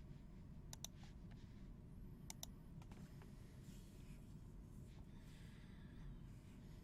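Near silence: faint room hum with a few sharp light clicks and soft rustles in between.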